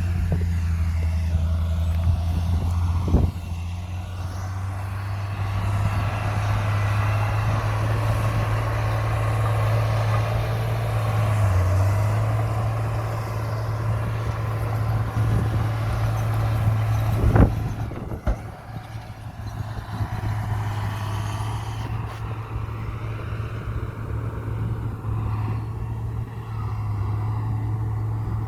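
Heavy diesel engine of earthmoving machinery running steadily under load, with a sharp metallic knock about three seconds in and a louder one around seventeen seconds.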